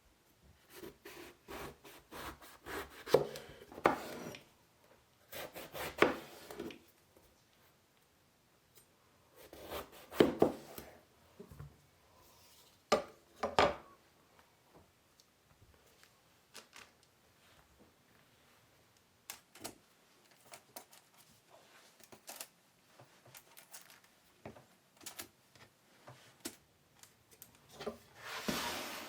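Kitchen food preparation on a wooden cutting board: irregular knocks and scraping in several short clusters, with quieter stretches of scattered light clicks between them.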